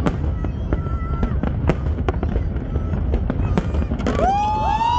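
Fireworks exploding in a rapid string of sharp bangs and crackles over a continuous low rumble. Near the end, several whistling tones rise in pitch and then hold.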